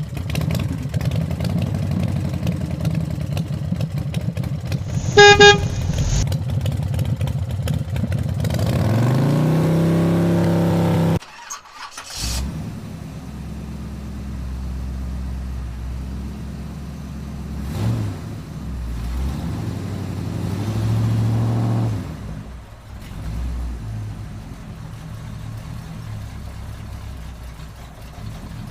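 Toy vehicle sound effects: a steady buzzing engine-like hum with one short honk of a horn about five seconds in, then a rising engine rev that cuts off suddenly, followed by quieter running sounds.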